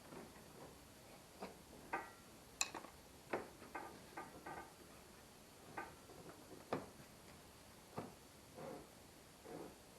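Scattered light clicks and metallic taps at irregular intervals, some with a brief ring: hand tools and small metal engine parts being handled during intake-gasket work.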